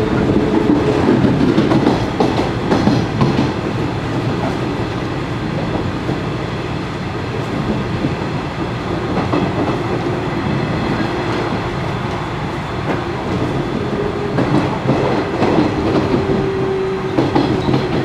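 Running sound of a Nishitetsu 5000 series electric train (set 5111F, built by Kawasaki Heavy Industries in 1978), heard from inside the car at speed: a steady rumble with a faint humming tone and occasional clicks of the wheels over rail joints.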